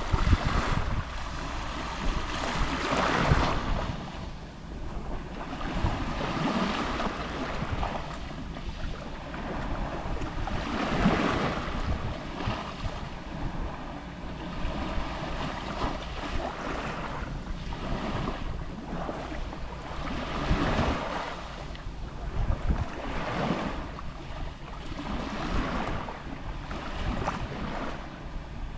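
Gentle waves lapping on a sea shore, each wash swelling and fading every few seconds, with a steady low rumble of wind on the microphone.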